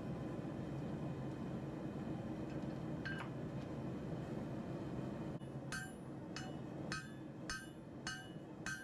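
Hammer blows on hot steel over an anvil, each with a short metallic ring: one strike about three seconds in, then a steady run of strikes at nearly two a second from about halfway, under a steady low rumble.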